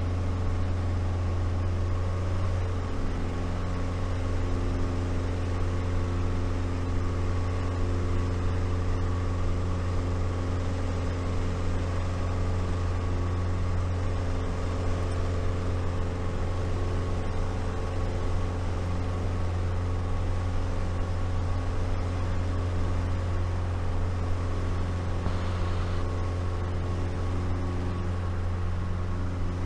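Light aircraft's piston engine and propeller droning steadily in the cockpit while climbing out on a go-around. The engine note shifts about three seconds in and changes again near the end.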